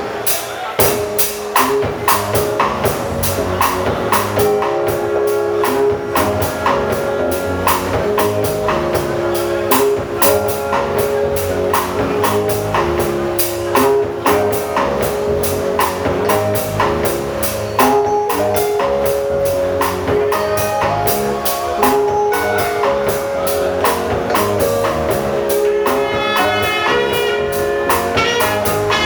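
Band music driven by a drum kit playing a busy, steady groove of quick strokes, under pitched instruments playing a repeating melody; a brighter melody line comes in near the end.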